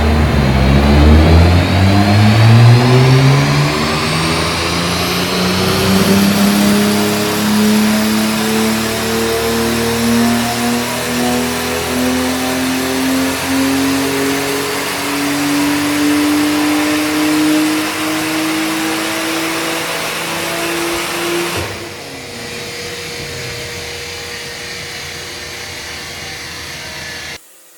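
Single-turbo BMW M4 inline-six (Garrett G35-900 turbo) in one long full-throttle pull, its engine note climbing steadily through the revs with a rising turbo whistle in the first few seconds. After about 22 seconds the throttle shuts suddenly and the engine drops to a quieter, steady run before the sound cuts off near the end.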